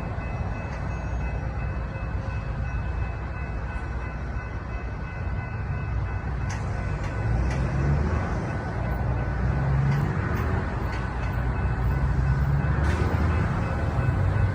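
Train's low rumble, slowly growing louder, with a few faint steady tones above it and a few faint clicks.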